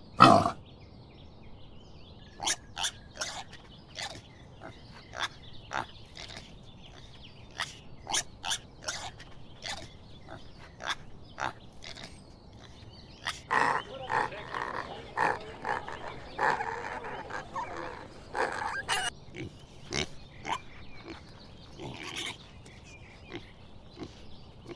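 Domestic pigs grunting: a run of short, separate grunts, with a denser and louder stretch for several seconds past the middle.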